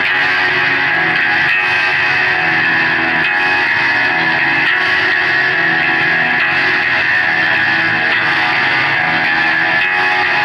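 Live band music: loud, sustained electric guitar through effects and distortion, a dense unbroken wall of sound.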